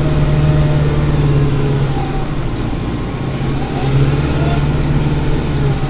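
Kubota tractor's diesel engine and snowblower running under load, heard from inside the closed cab as a steady low drone that dips briefly about two seconds in and again near four seconds.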